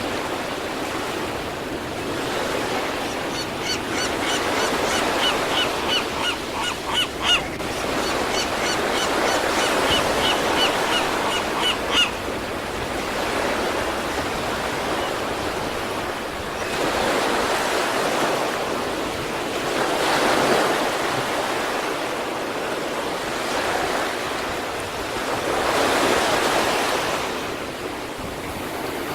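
East Sea waves surging and washing onto the shore as a continuous rushing noise, swelling as waves break, most clearly in the second half. In the first half a bird calls in two runs of quick, short repeated notes.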